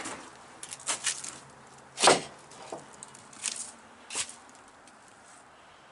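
Metal parts being picked up and handled: a handful of separate knocks and clatters, the loudest about two seconds in.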